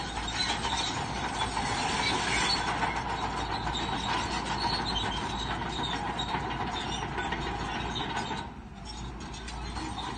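Shantui crawler bulldozer working: the engine runs under a dense metallic clatter from the steel tracks, easing off briefly about 8 seconds in before picking up again.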